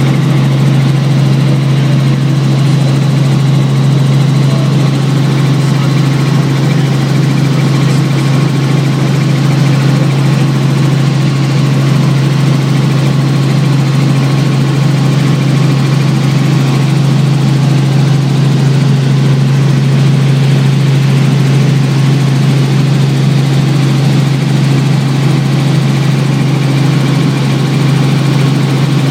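Helicopter in flight: a loud, unchanging drone of engine and rotors with a strong low hum.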